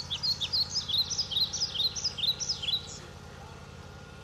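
Rapid bird chirping: a quick run of short, high chirps, several a second, that stops abruptly about three seconds in.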